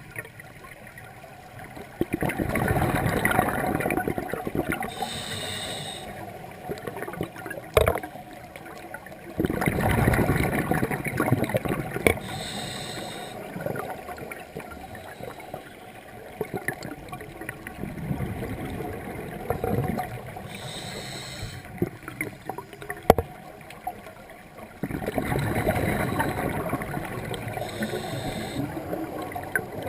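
Scuba diver breathing through a demand regulator underwater: four breaths about seven or eight seconds apart. Each is a burst of gurgling exhaust bubbles lasting two to three seconds, followed by a short, high hiss from the regulator.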